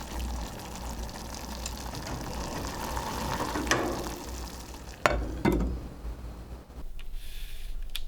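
Food sizzling as it fries and is stirred in a pan, with a few sharp knocks a little past halfway; the sizzle turns quieter near the end.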